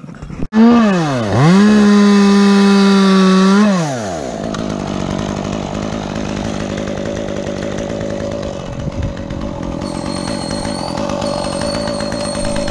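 Stihl two-stroke chainsaw revved to full throttle: it snaps up, dips briefly and climbs back, holds a high steady whine for about two seconds, then drops off the throttle. A quieter steady running sound carries on after.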